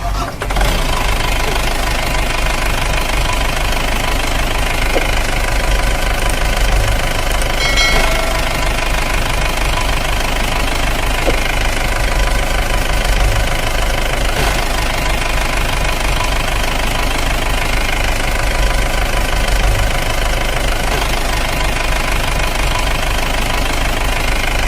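A diesel tractor engine running steadily with a fast low chugging. It starts abruptly.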